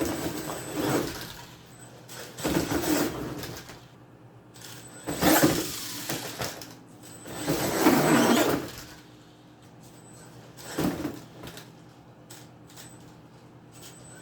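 Venom Mini Giant RC monster truck's brushless electric motor revving in about five short bursts, a second or two apart, as the truck runs over cardboard ramps.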